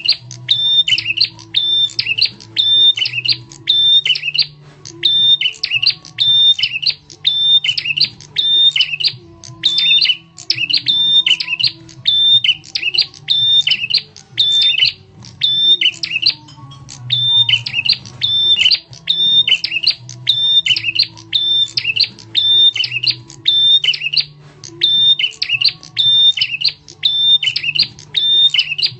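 A prenjak tamu, a prinia, calling over and over: loud, sharp chirps repeated about one and a half times a second, in runs broken by short pauses, played as a lure call to draw other birds in.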